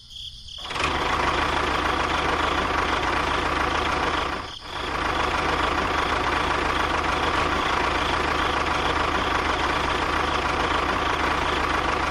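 A motor running steadily, with a brief dip about four and a half seconds in.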